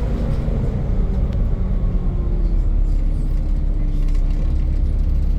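Volvo B7 double-decker bus's diesel engine running under a steady heavy rumble, with a whine that slowly drops in pitch as the bus eases off.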